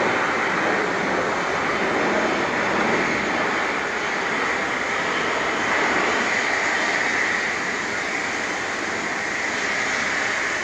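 Steady jet roar of a Boeing 747-400F freighter's four engines climbing out after takeoff, a continuous rushing noise with a brighter hiss in the upper range.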